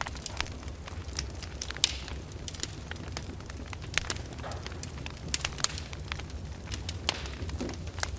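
Wood fire crackling in a fireplace: irregular sharp pops and snaps, a few at a time, over a steady low rumble of the burning fire.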